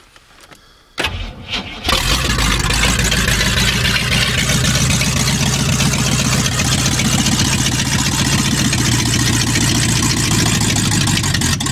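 Chevy 350 small-block V8 cold-started: it cranks for about a second, catches about two seconds in and runs steadily, then dies suddenly near the end, which the owner puts down to it probably running out of gas.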